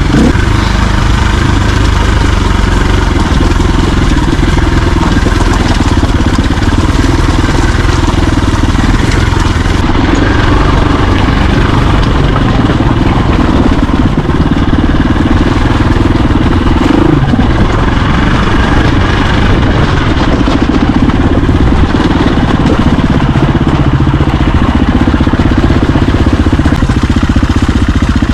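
Dirt bike engine running loud and steady, its pitch shifting a little now and then.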